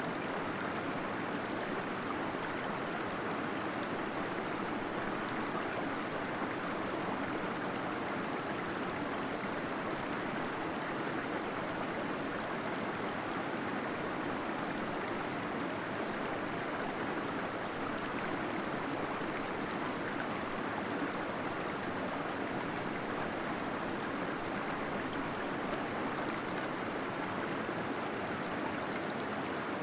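Small waterfall splashing into water inside a cave: a steady, even rush of falling water with fine gurgling and spattering.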